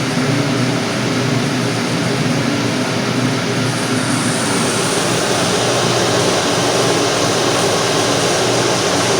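Steam boiler burner firing, a steady rush of combustion and fan noise. About four seconds in the sound shifts: the low hum fades and a brighter, slightly louder rush takes over.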